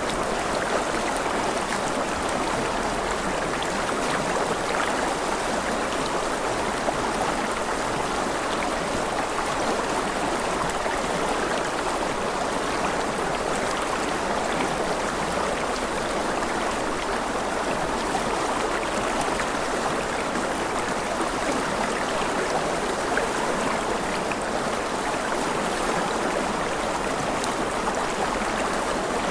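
Steady rushing and babbling of flowing water, like a stream, with fine splashy detail.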